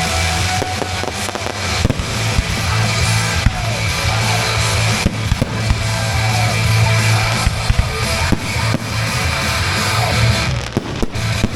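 Fireworks going off in quick succession, with sharp bangs and crackling, over music playing throughout.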